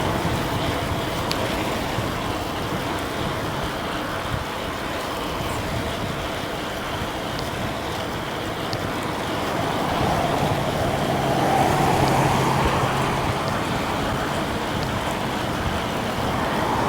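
Road traffic noise with a steady rush of wind and tyres while riding along a road; a vehicle passes, louder for a few seconds about ten seconds in.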